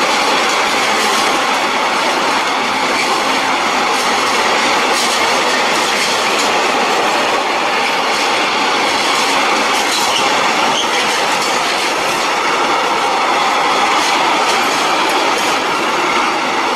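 Freight train's wagons rolling past: container flat wagons, then a tank wagon, making a steady loud rumble of wheels on rail with scattered clicks.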